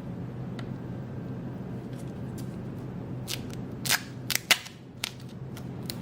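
Several sharp clicks and snaps from small parts being handled during quadcopter assembly. They start about three seconds in, over a steady low hum.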